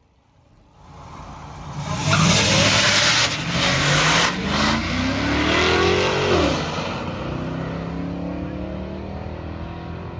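A truck's engine accelerating hard in a race under a loud rushing noise: the pitch climbs steadily for about four seconds, drops off sharply, then a steadier engine sound carries on and fades.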